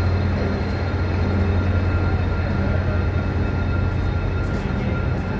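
A GO commuter train's diesel locomotive running steadily, with a deep hum and a faint high whine held on constant notes.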